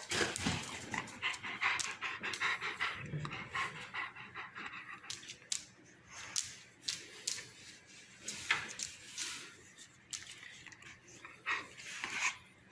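Rottweiler panting in quick, noisy breaths, with a few sharp clicks in between.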